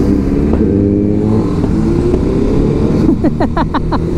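TVS Apache RR 310's single-cylinder engine pulling under load at speed, its pitch climbing steadily. About three seconds in, a quick run of about six short rising chirps sounds over it.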